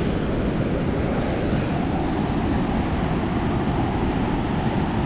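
Steady rushing of a swollen, fast-flowing river running high after rain.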